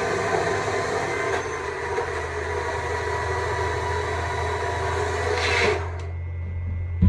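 Stihl MSA 200 C battery chainsaw running steadily while carving wood, with an even electric-motor whine. About six seconds in it is let off and stops, leaving a low hum.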